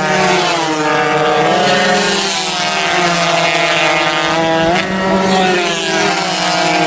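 Several two-stroke 120cc racing motorcycle engines running at high revs together. Their pitch rises and falls as the bikes shift gears and pass, with a marked drop about two seconds in and again near five seconds.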